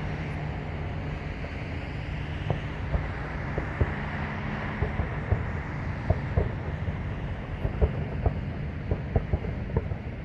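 Distant fireworks finale: sharp pops and bangs coming faster and faster, several a second toward the end, over a steady low rumble of traffic.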